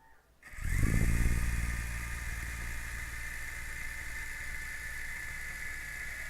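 A man's mouth imitation of a helicopter rotor, made by blowing hard while wobbling a hand against the mouth. It is a low, steady mechanical-sounding drone that starts about half a second in, is loudest at first, then holds steady.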